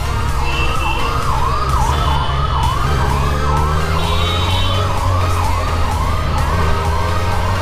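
Siren wailing in quick rising-and-falling sweeps, about two a second, over the steady low drone of a running motor.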